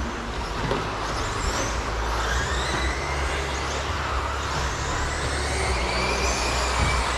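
Several electric RC stadium trucks with 13.5-turn brushless motors racing, their high motor whines rising and falling in pitch as they speed up and slow down, over a steady low hum.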